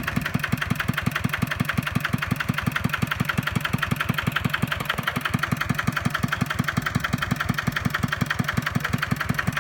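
Kubota walking tractor's single-cylinder diesel engine running steadily, a fast even chugging of about eight beats a second.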